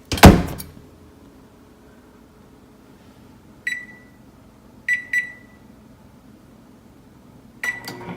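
Microwave oven door shutting with a sharp clunk, then four short keypad beeps (one, a quick pair, then one more) as the time is set, and the microwave starts running with a steady hum near the end.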